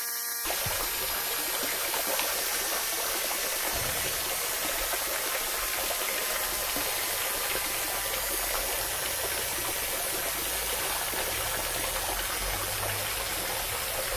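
Steady rush of flowing water, an even gushing noise that holds constant, with a faint low rumble joining about four seconds in.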